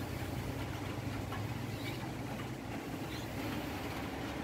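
Steady background of light rain falling, with a low, even rumble underneath.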